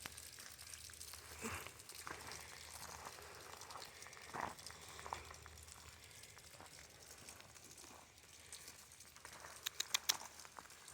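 Faint, steady patter of light rain, with scattered soft ticks and a quick run of sharp clicks near the end.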